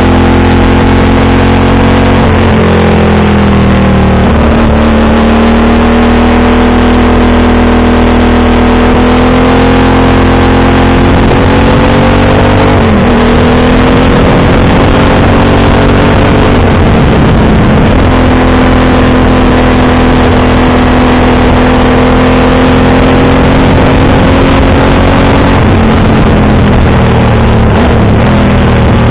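Motorcycle engine and exhaust running under way. The engine note drops and climbs back a few times as the throttle is eased and reopened.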